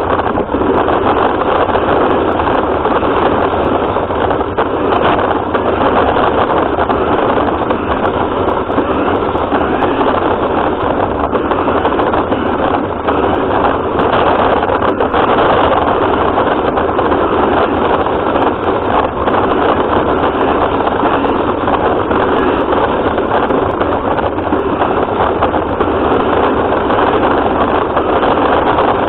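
A radio-controlled car running steadily, with motor, drivetrain and ground noise picked up by a camera mounted on the car.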